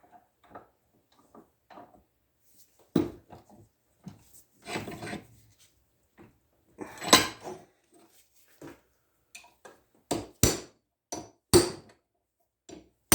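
Irregular sharp metal-on-metal knocks and clinks with brief scraping, as a steel punch works against a shell mill held in a vise to break loose the paper-thin remains of its R8 hub. The loudest strikes fall about seven seconds in and in a quick run of several near the end.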